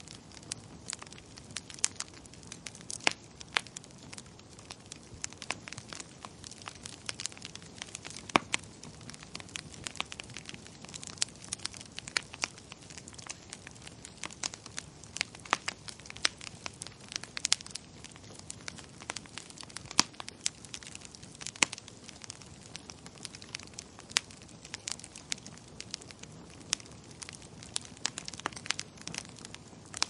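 Wood fire crackling in a fireplace: frequent irregular sharp pops and snaps over a soft steady hiss of burning.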